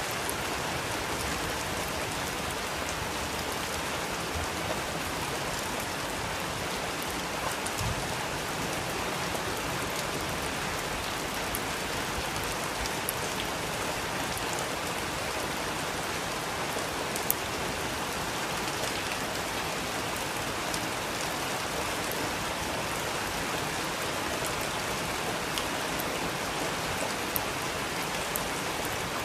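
Steady rain falling, an even hiss with scattered sharper drops and drips.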